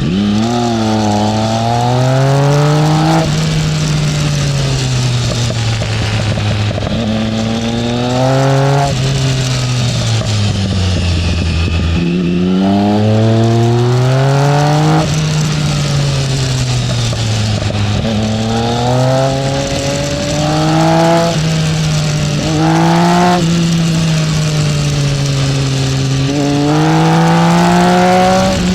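Triumph Speed Triple's three-cylinder engine heard on board at riding speed, repeatedly climbing in pitch under acceleration and falling back as the throttle closes, with sudden drops in pitch at the upshifts.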